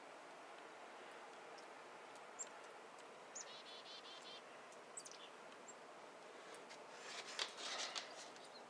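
Faint outdoor hush with a few short, high bird chirps and, about three and a half seconds in, a quick trill of repeated notes. A brief rustling noise comes near the end.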